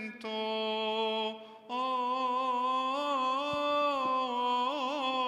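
A man chanting a Coptic liturgical melisma solo: one long steady note, a brief break, then a long drawn-out line on a single vowel with small wavering turns that grow quicker near the end.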